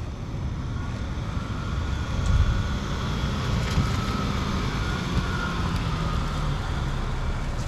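School bus engine running close by: a steady low rumble.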